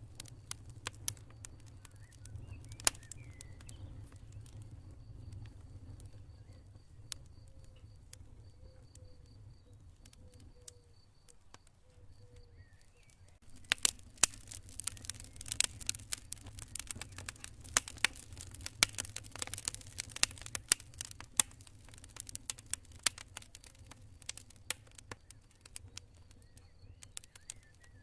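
Campfire crackling, with sharp pops that come much thicker from about halfway through, over a low rumble. A faint cricket chirps in steady pulses during the first half.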